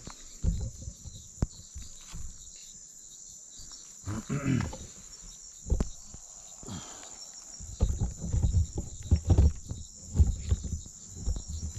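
Steady high-pitched chorus of insects such as crickets, with a short low sound falling in pitch about four seconds in and heavy low bumps and rumbles in the second half.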